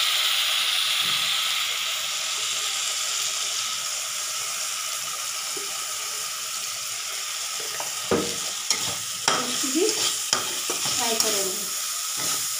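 Chopped onion, green chillies and ginger-garlic paste with spices sizzling in hot oil in a kadhai. From about eight seconds in, a metal spatula scrapes and knocks against the pan in quick stirring strokes.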